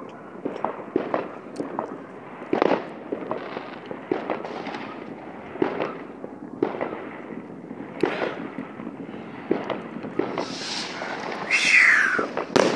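New Year's Eve fireworks and firecrackers going off all around, with many irregular bangs and pops. Near the end comes a louder hissing firework with a whistle that falls in pitch.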